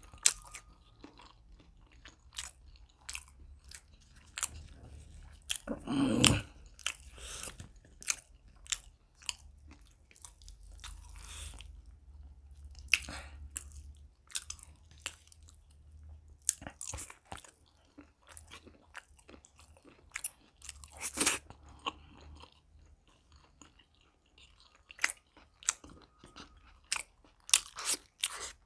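Close-miked mouth sounds of a man eating boiled egg and spiced chicken liver and gizzard by hand: irregular wet chewing and lip-smacking, with a louder smack about six seconds in and again about twenty-one seconds in.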